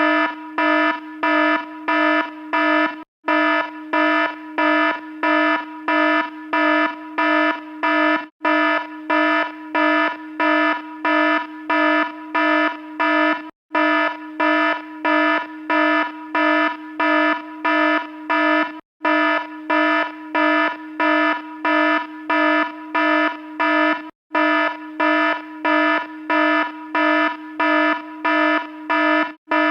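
Electronic alarm beeping: a harsh, buzzy low tone pulsing about twice a second, with a brief break every five seconds or so.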